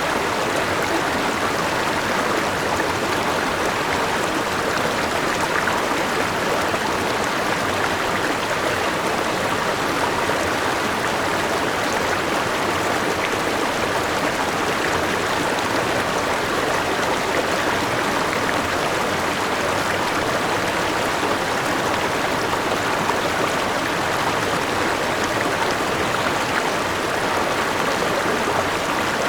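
A forest river rushing steadily over rocks, with the wash of a small waterfall: a continuous, even water noise.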